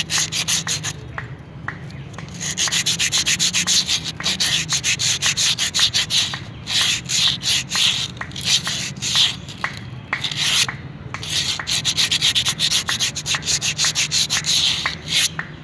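Sandpaper rubbed back and forth over the lining of a two-wheeler's drum brake shoe in quick, rapid strokes, broken by a few short pauses. It is scraping off the black carbon glaze that makes drum brakes whistle.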